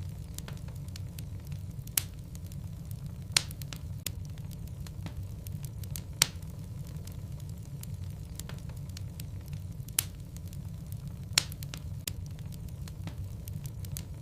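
Wood logs burning in a fireplace: a steady low rumble of flames with sharp, irregular crackles and pops every second or few, several of them loud.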